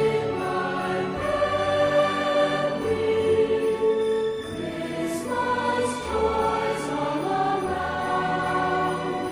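Choral music: voices holding long, slow chords that change every second or two over a low bass line.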